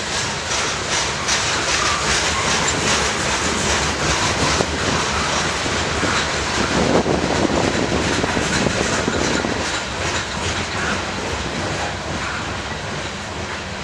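Train passing at close range, its wheels giving a rhythmic clatter as they cross rail joints, with a steady rumbling rush of rolling noise.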